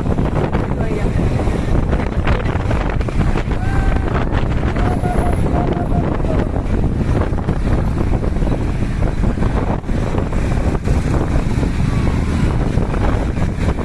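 Steady, loud wind buffeting the microphone of a moving motorcycle, with the bike's engine running underneath.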